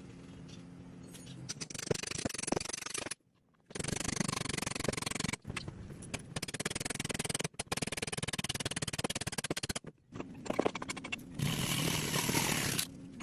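Scraping and rasping of hand-tool work on wood, in several short stretches that cut off abruptly between them.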